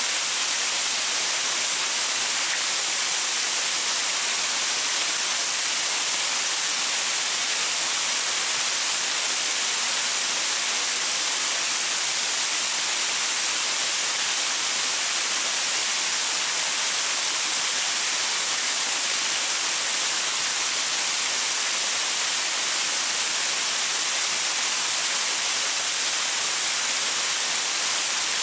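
Small waterfall splashing over rocks: a steady, even hiss of falling water, mostly high-pitched with little low rumble.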